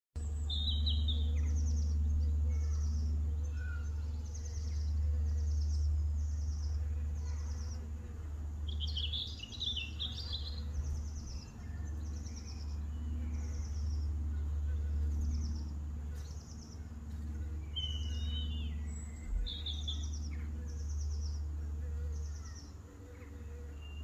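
Garden birds singing: one bird repeats a short high note about once a second while others chirp now and then, over a steady low rumble.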